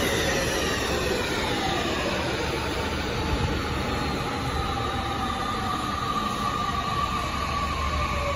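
Tokyu 5050-series electric commuter train arriving and braking: its motor whine falls in pitch as it slows, over a steady rumble of wheels on the rails.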